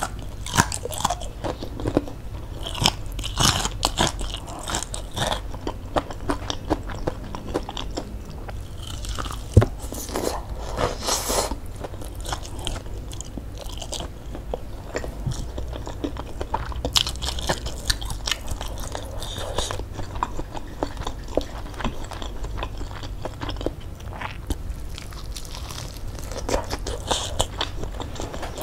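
Close-miked biting and chewing of crispy fried chicken (ayam geprek): irregular crunches and crackles of the fried coating, with one sharper crunch about a third of the way through.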